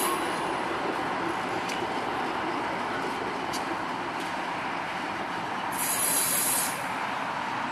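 Budd stainless-steel passenger cars of a passenger train rolling past: a steady rumble of wheels on rails with a few faint clicks. About six seconds in, as the last car goes by, a sharp high-pitched noise lasts about a second.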